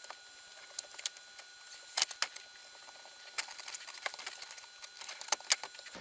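Irregular light clicks and clinks of metal tools and parts being handled, with a few sharper knocks about two seconds in and near the end.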